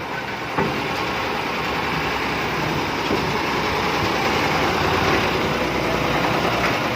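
Engine of a road construction machine running steadily, rising a little in loudness toward the middle, with a short knock about half a second in.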